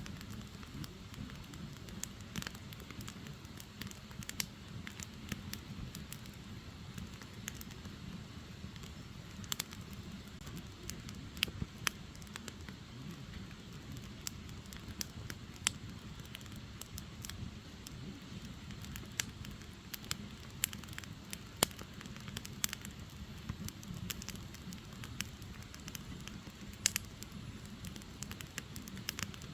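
Wood fire burning: a low steady rush of flames with sharp crackles and pops at irregular intervals.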